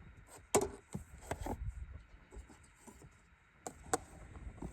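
Scattered light clicks and taps of a laptop and a clip-on portable desk being handled and adjusted, a few around the first second and another pair near the end.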